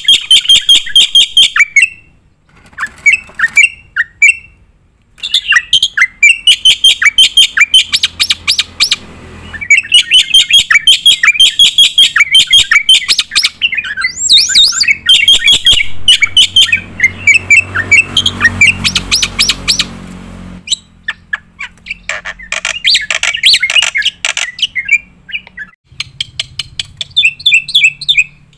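Black-winged myna (jalak putih) singing at full volume: long, fast strings of loud, sharp repeated notes, several a second, broken by a few short pauses.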